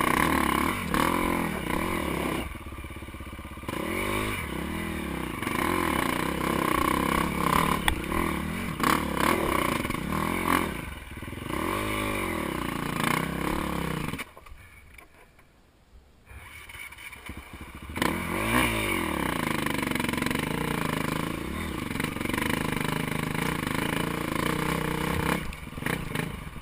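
Dirt bike engine being ridden, its pitch rising and falling again and again as the throttle is worked. About halfway through it drops away to almost nothing for a couple of seconds, then picks up again.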